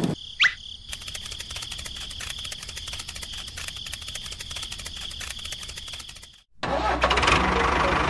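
A small motor running with a rapid, even clicking and a steady high whine, after a short rising whistle near the start. It cuts off about six seconds in, and a louder, low, steady drone follows.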